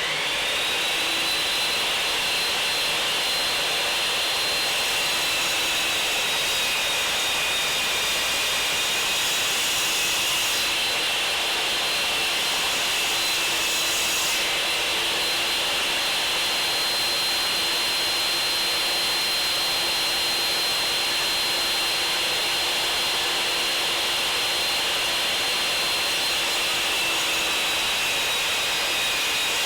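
Circular saw mounted in a Triton Workcentre, running steadily and cutting timber legs to length. Its high whine sags a little in pitch twice, as the blade takes load.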